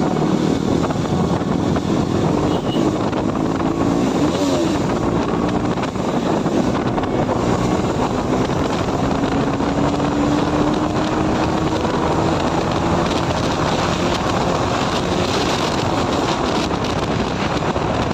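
Motorcycle riding at speed, its engine running under heavy wind noise on the microphone; a faint engine tone rises slowly in pitch partway through.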